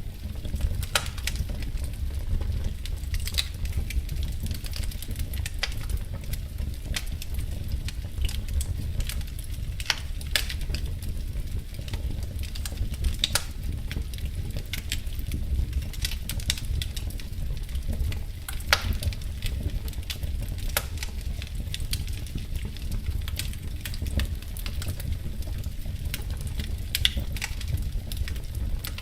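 Wood fire crackling in a fireplace: a steady low rumble with irregular sharp pops and crackles, a few of them louder than the rest.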